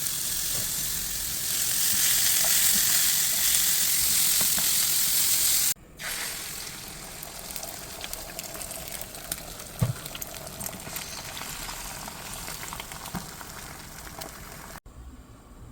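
Food sizzling in a hot pan, a steady hiss with small pops and clicks. It is louder for about the first six seconds, then cuts off and goes on more quietly.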